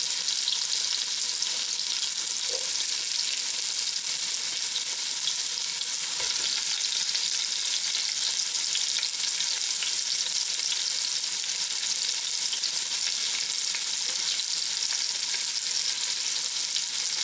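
Floured hog testicles, carrots and potatoes sizzling in hot canola oil in a thick cast iron pot: a steady frying hiss, with a couple of faint knocks. The oil is hot enough to brown the meat.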